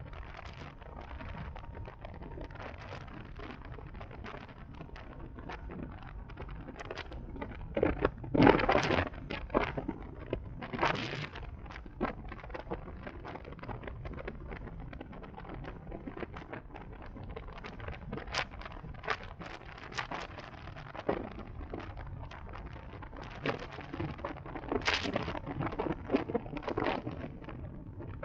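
Wind and road noise while riding an electric motorcycle, with no motor sound to be heard: a steady low rumble broken by frequent sharp crackles and a few louder gusts of noise, the loudest about eight seconds in.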